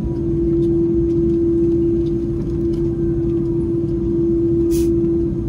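Airbus A330-300 cabin noise: a steady rumble of the engines and airflow with a constant droning hum. A brief hiss sounds near the end.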